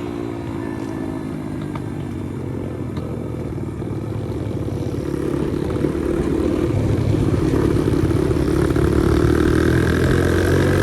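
Pit bike's small single-cylinder four-stroke engine running on the ride, the pitch easing off at first and then climbing and getting louder through the second half as it accelerates.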